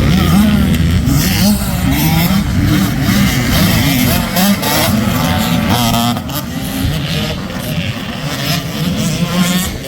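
Motocross dirt bike engines racing on the track, revving up and down over and over as the riders accelerate and back off; louder for the first six seconds or so, then a little fainter.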